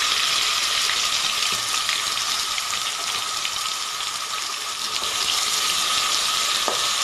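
Wet ground masala paste sizzling steadily in hot oil in an aluminium pot, stirred with a wooden spoon near the end. A steady high whine runs underneath.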